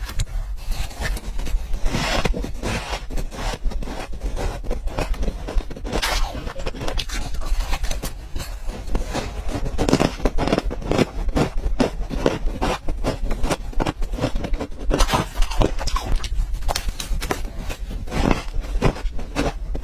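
Ice being bitten and chewed close to the microphone: a dense run of irregular crunches and cracks.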